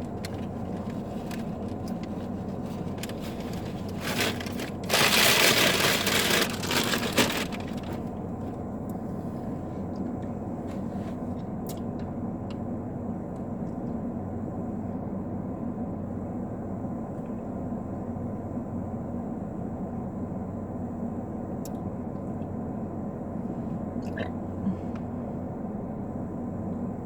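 Food packaging rustling and crinkling loudly for a couple of seconds about five seconds in, over a steady low hum inside a parked car's cabin, with a few faint clicks later on.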